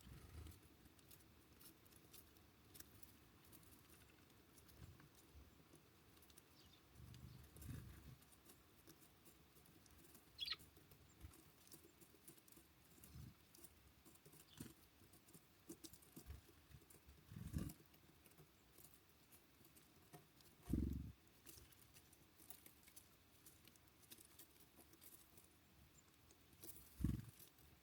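Small birds at a feeder in snow: scattered soft thumps and light ticking and tapping, with one short high chirp about ten seconds in.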